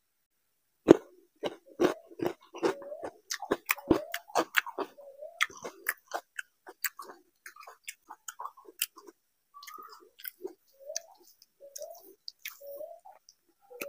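Close-miked chewing of a lime wedge: after a moment's quiet, a quick run of crisp crunching bites, then softer wet chewing and lip smacks.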